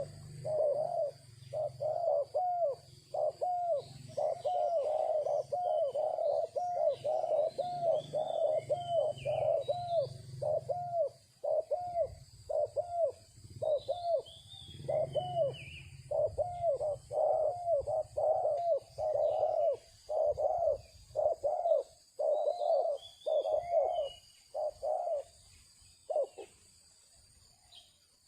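A bird calling in a long, rapid run of low repeated notes, about two a second, that stops near the end. Brief higher chirps from a smaller bird come in three times.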